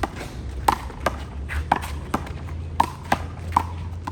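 Handball rally: a small rubber handball is slapped by hand, hits the wall and bounces on the court in a run of sharp smacks about two a second, some with a short ringing ping.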